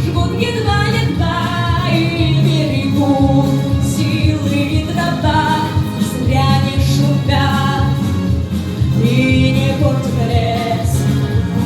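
A young woman singing a pop song solo over instrumental accompaniment with a steady beat, her held notes wavering with vibrato.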